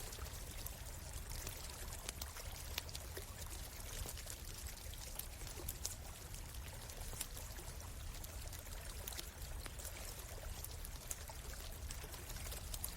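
A stream running steadily, with the sharp crackles of a wood campfire scattered irregularly through it.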